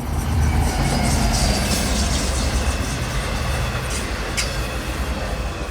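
Subway train running on the rails: a steady, loud rumble and rattle of wheels on track, with a couple of sharp clanks about four seconds in.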